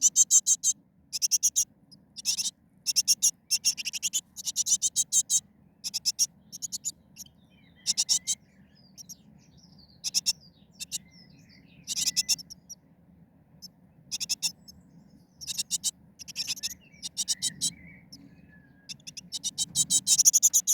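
Small birds giving high-pitched chirps in quick, rapid-fire bursts, repeated every half second or so, with short pauses between runs.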